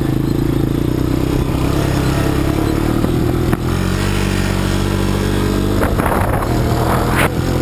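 Quad bike (ATV) engine running at a steady speed. There is a sharp knock about three and a half seconds in, and some clattering and knocks near the end.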